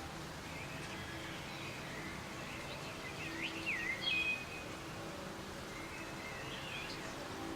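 Soft, steady rain with a small bird calling over it in short groups of whistled, swooping chirps, the clearest about halfway through.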